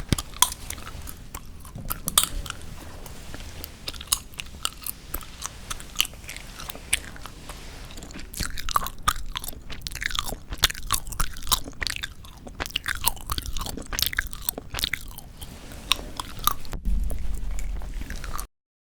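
Close-miked gum chewing: sticky, wet smacks and sharp clicks, several a second. Near the end a low rumble comes in, then everything cuts off suddenly.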